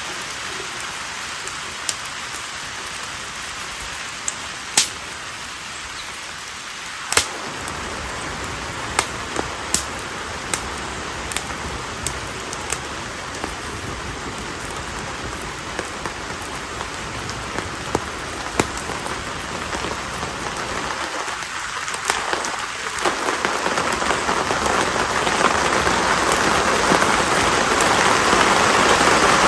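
Konara oak firewood burning in an open bonfire: a steady hiss of flames with irregular sharp crackles and pops. The hiss grows louder over the last few seconds.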